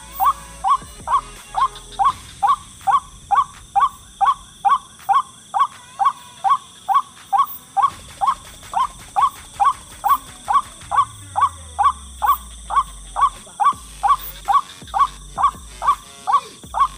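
White-breasted waterhen (ruak-ruak) calling: a short, loud note around 1 kHz repeated very evenly, about twice a second, without a break.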